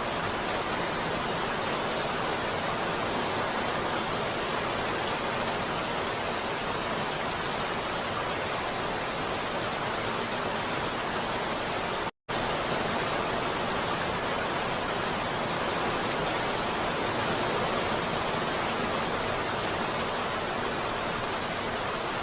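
Heavy rain falling steadily, an even hiss of dense drops. About halfway through it cuts out to silence for a split second, then resumes unchanged.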